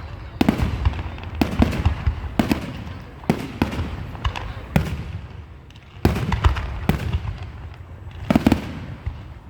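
Aerial fireworks going off in a steady run of booms, about one or two a second, each followed by a rumbling echo. A burst of closely spaced bangs comes about six seconds in, and another cluster near the end.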